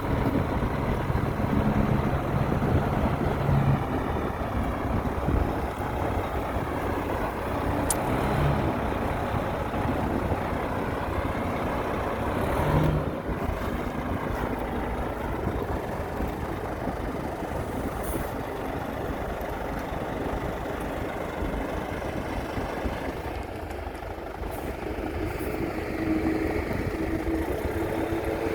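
Heavy diesel construction machinery running steadily, a continuous engine drone with no break.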